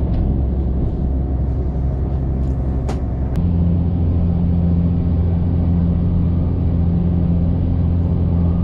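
Diesel passenger train heard from inside the carriage as it pulls away: a steady low engine drone, with two sharp clicks about three seconds in, after which the engine note steps up to a louder, stronger hum as the train gathers speed.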